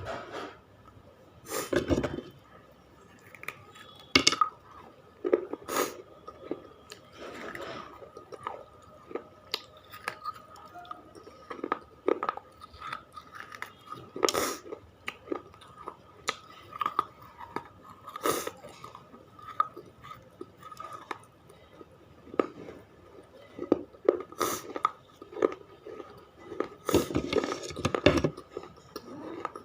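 Close-miked biting and chewing of hard, brittle baked-clay chips: a sharp crunching bite every few seconds, with gritty grinding chews between. A faint steady high hum lies underneath.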